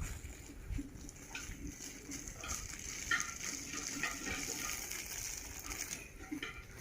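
Water splashing and running as a German Shepherd dog plays in it.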